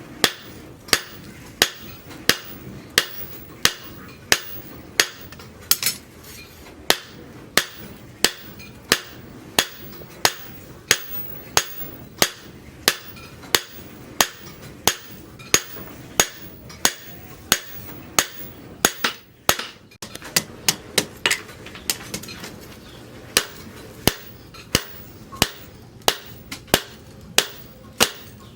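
Hand hammer forging steel rebar on an anvil: ringing metal blows in a steady rhythm of about three every two seconds. About two-thirds of the way through, there is a brief pause, then a quick run of lighter taps before the steady strikes resume.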